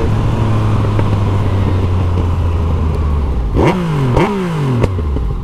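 Yamaha MT-09's three-cylinder engine running at a steady cruise under wind rush. Past the middle come three quick downshifts, the revs jumping and falling away each time as the bike slows, before the engine settles lower.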